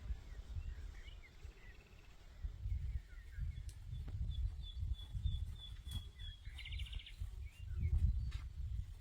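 Small birds chirping outdoors: scattered short calls, then a row of evenly spaced high notes ending in a quick trill. A low rumble that comes and goes runs underneath.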